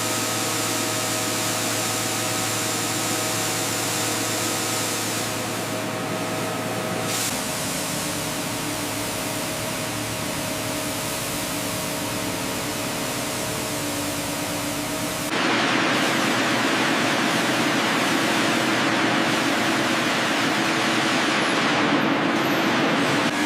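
Steady industrial machinery noise, a loud hiss over a low hum with a few steady tones. It shifts abruptly about seven seconds in, and again about fifteen seconds in, where it grows louder and hissier.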